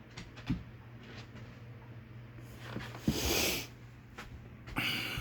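Southern Classic 52-inch ceiling fan running on medium speed with a steady low motor hum. A click comes about half a second in, and a short, loud rushing noise comes about three seconds in.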